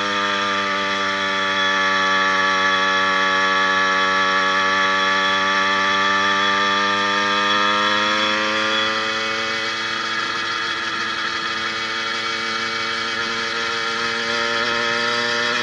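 80cc two-stroke motorized bicycle engine, fitted with a new needle wrist-pin bearing and piston, running steadily under way. Its pitch sags slightly midway, then drops a little and gets a bit quieter about nine seconds in before holding steady.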